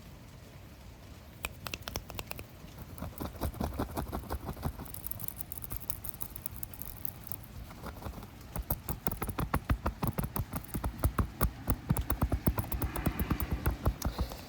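Fingers scratching rapidly close to the microphone in quick, crisp strokes. They start about a second and a half in and grow faster and louder from about eight seconds in, several strokes a second.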